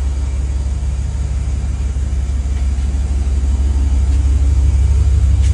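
A Dodge 1500's V8 engine idling: a steady low rumble that grows a little louder near the end.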